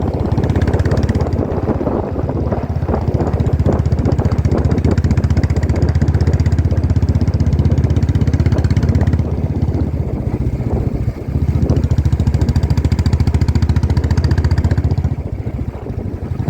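Motorcycle engine running steadily while riding, with a constant low drone; the sound drops briefly twice, around ten seconds in and again near the end.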